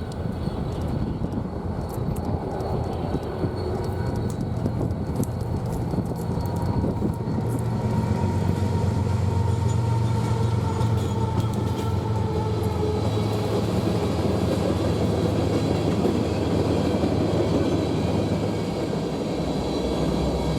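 Freight train rolling past: a steady rush of wheels on rail with a low engine hum underneath and scattered clicks early on.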